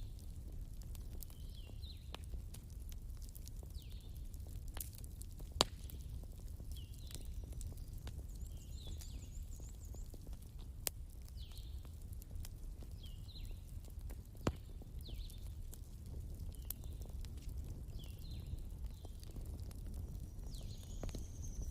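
Fire crackling, with sharp pops scattered through it and the loudest about five and a half seconds in, over a steady low rumble. Short high calls from a small animal repeat every second or so.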